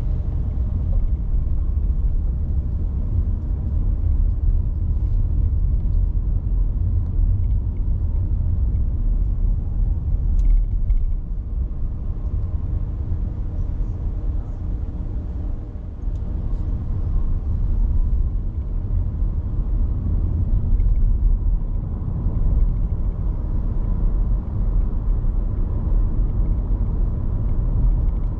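Steady low rumble of a car driving, mostly road and wind noise, easing a little for a few seconds about halfway through.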